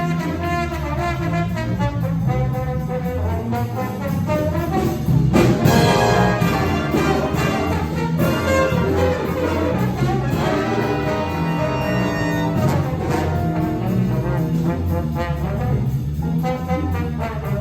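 High school jazz ensemble playing, with the brass section of trombones and trumpets to the fore. A louder full-ensemble accent comes about six seconds in.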